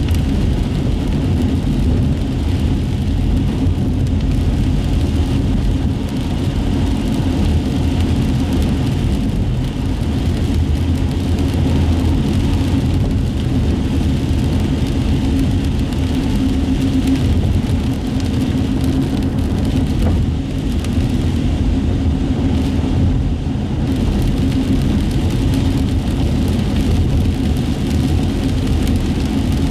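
Steady road noise from inside a moving car on wet city streets: a low engine and tyre rumble with a faint hiss of tyres on wet pavement.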